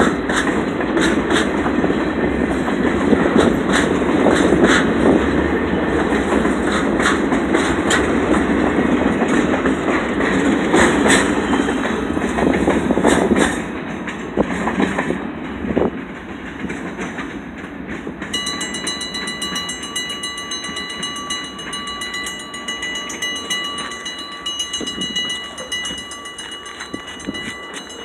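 Freight train passing close by, its wheels clacking over the rail joints, loud for the first half and then dropping away. Over the last ten seconds a steady high-pitched ringing tone sounds.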